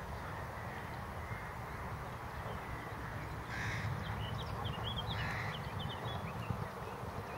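Two bird calls about a second and a half apart, around the middle, with a quick run of high chirps from a smaller bird between them, over a steady low background rumble.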